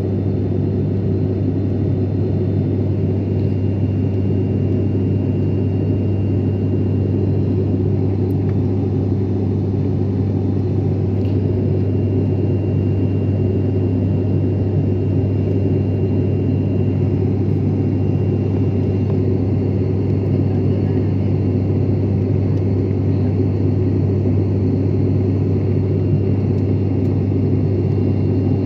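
Steady airliner cabin noise in flight: the even drone of the engines and airflow, with a strong deep hum and a faint steady high whine above it.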